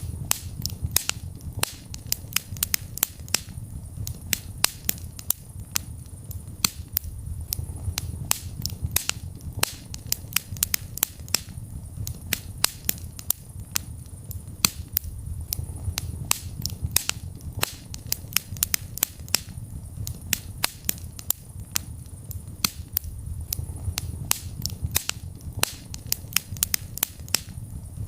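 Wood fire burning in a fireplace: frequent, irregular sharp crackles and pops over a steady low rumble of the flames.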